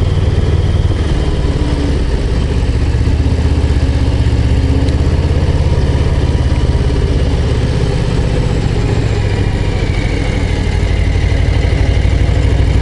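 Harley-Davidson Low Rider ST's Milwaukee-Eight 117 V-twin running under way on the road, a steady low engine sound that picks up a little near the end.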